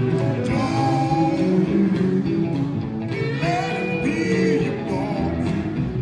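Sacred steel gospel band playing live, the electric steel guitar sliding between notes over the rest of the band.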